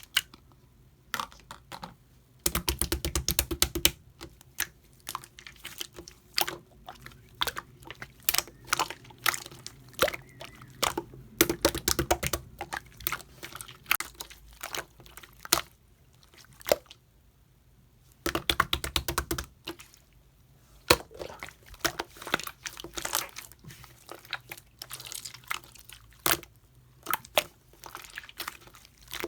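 Clay slime being squished and poked by hand, making irregular sticky pops and clicks, with two short spells of fast crackling, a few seconds in and about two-thirds through.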